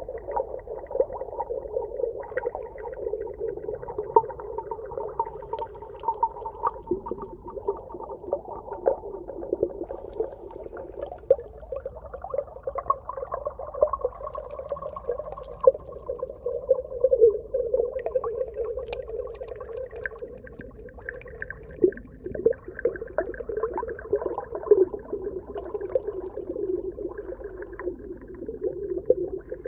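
Underwater ambience: a muffled, wavering hum with scattered clicks and crackles.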